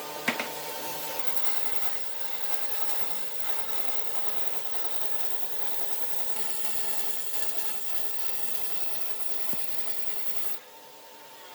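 A tool rasping and abrading wood in a continuous scraping noise, with a faint steady motor-like hum underneath. There are a couple of sharp clicks at the very start, and the noise drops off near the end.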